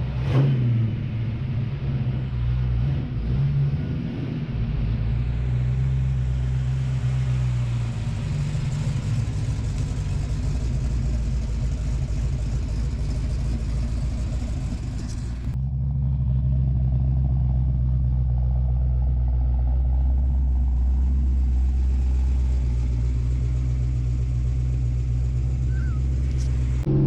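Freshly rebuilt Ford 5.0 V8 in a Fox-body Mustang running steadily on a drive, a low even drone. The sound changes abruptly about halfway through.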